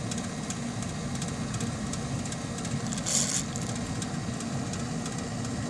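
Steady low mechanical hum of running equipment, with one short hiss about three seconds in: an aerosol can of penetrating oil sprayed onto a blower pulley that is seized to the motor shaft.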